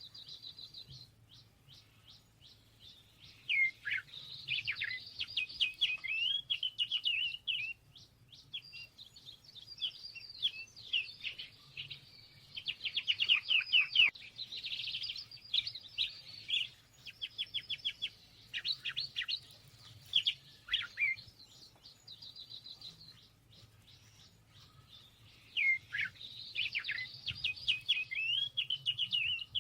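A songbird singing: several long phrases of rapid, tumbling notes, each a few seconds long, with short pauses between them.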